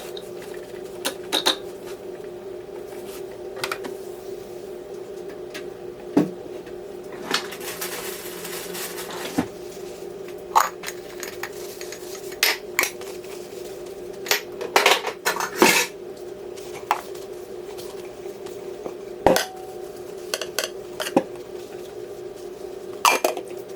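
Dishes and cutlery clinking and knocking as they are handled, in irregular strikes over a steady low hum.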